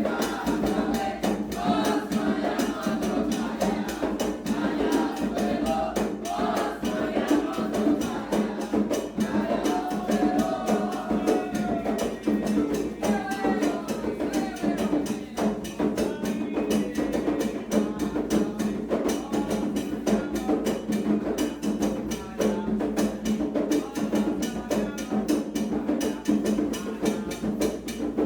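Candomblé ritual music: a group singing a chant over hand drums and a fast, dense beat of percussion strokes.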